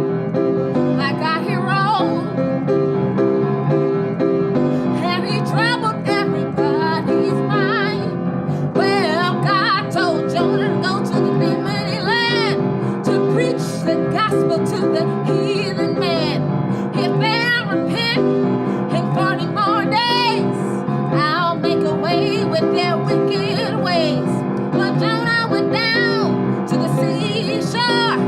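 A woman singing a gospel song with wide vibrato over steady piano chords.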